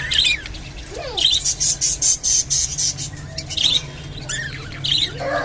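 Budgerigars chattering: short harsh squawks scattered through, with a fast run of clicking chatter from about a second in for a couple of seconds, over a steady low hum.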